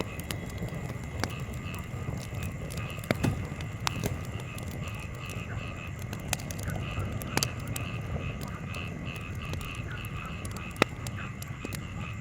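Wood campfire crackling, with scattered sharp pops, the loudest about eleven seconds in, over a low steady rush. Behind it a chorus of frogs calls in a quick pulsing rhythm of about four calls a second.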